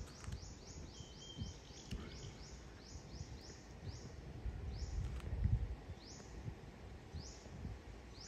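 A bird calling with short, high-pitched chirps, several quick ones in the first two seconds and then about one a second. A low rumble runs underneath, loudest about five seconds in.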